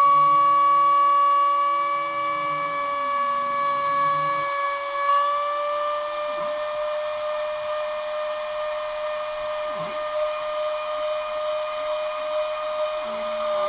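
Stepper motors of a homemade Arduino CNC machine on A4988 drivers, whining steadily as the axes move. A lower tone glides up and down twice and stops about four and a half seconds in, while the main whine shifts slightly in pitch.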